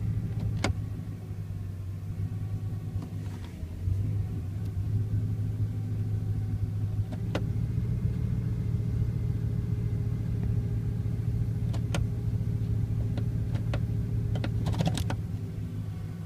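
2005 Dodge Ram 1500's 5.7 Hemi V8 running steadily with a steady whine from the automatic transmission, which has lost all its gears; the owner thinks the torque converter or front pump is gone. It gets a little louder about four seconds in, with a few sharp clicks scattered through.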